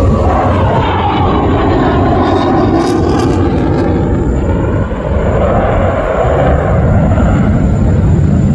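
A single-engine fighter jet flying a display pass: a loud, steady jet-engine roar whose tone sweeps up and down as it goes by.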